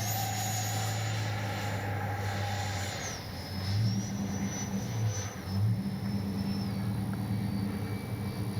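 80mm 12-blade electric ducted fan of an RC jet whining in flight, its pitch stepping down twice as the throttle is pulled back on the landing approach, over a steady low hum.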